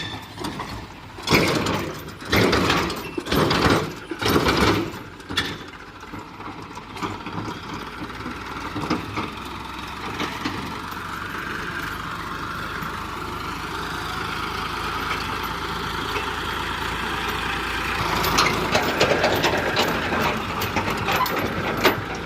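Tractor engine running, with several loud irregular bursts in the first five seconds, then a steady hum that slowly grows louder and turns louder and busier about eighteen seconds in.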